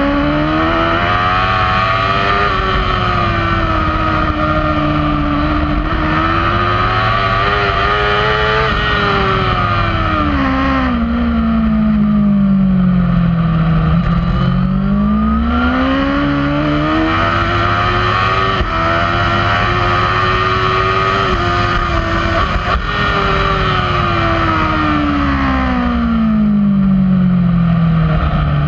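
Kawasaki superbike's inline-four engine at racing speed, heard from a camera mounted on the bike. Its pitch climbs under acceleration and falls away under braking, twice, with small steps in the note at the gear changes.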